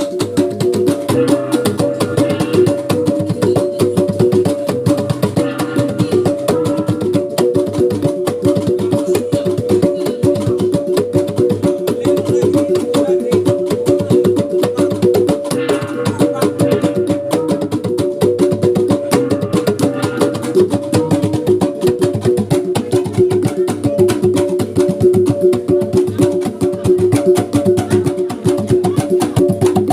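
Sumbanese gong and drum ensemble playing a fast, steady rhythm: gongs ring on held pitches over rapid drumbeats.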